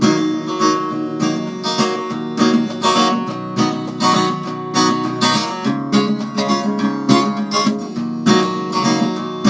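Acoustic guitar strumming chords, a steady rhythm of strokes without singing.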